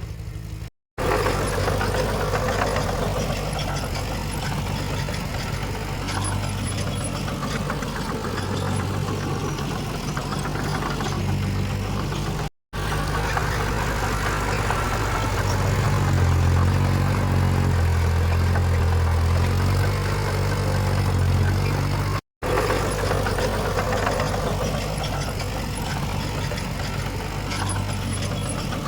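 Diesel engines of heavy earthmoving machinery running steadily, broken by three short silent gaps at edit cuts. For a few seconds past the middle the engine note grows deeper and louder, as under load.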